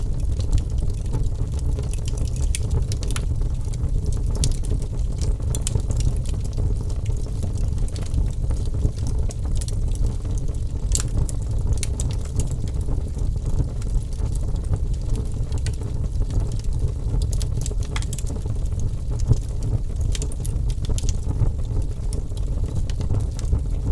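Wood fire burning, with a steady low rumble of flames and irregular sharp crackles and pops.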